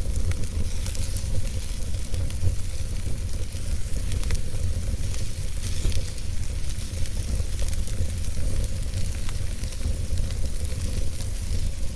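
Wood fire crackling in a fireplace: a steady hiss with a low rumble underneath and frequent small scattered pops and crackles.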